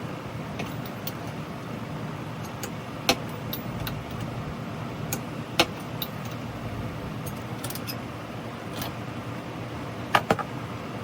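A few sharp metallic clinks of hand tools on metal, two of them close together near the end, over a steady background hum.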